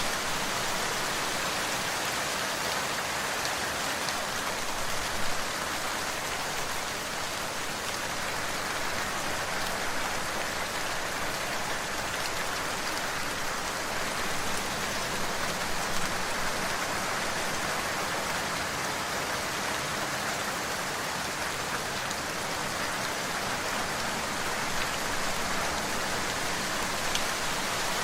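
Steady rain falling, an even hiss with occasional louder drops ticking on a surface.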